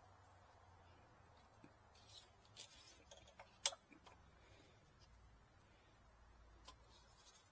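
Near silence broken by a few faint clicks and taps, the loudest a single sharp click about three and a half seconds in.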